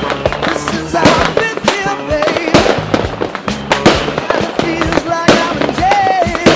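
Fireworks going off: a rapid string of sharp bangs and crackles, about two to three a second, over background music.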